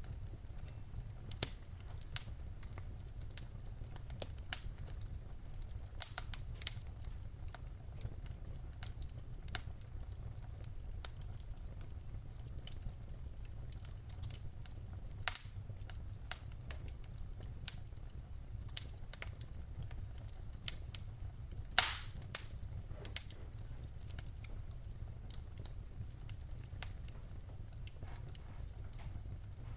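Wood fire in a fireplace crackling, with irregular sharp pops and snaps over a steady low rumble of the flames; the loudest snaps come about fifteen seconds in and about twenty-two seconds in.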